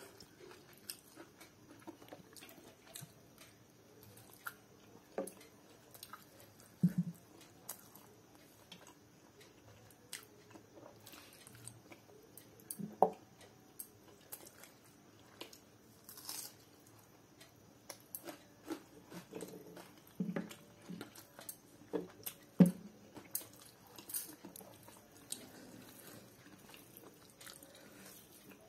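Close-up eating sounds: a person chewing and biting chicken curry, rice and roti, as irregular soft mouth clicks, with a few sharper, louder bites spread through.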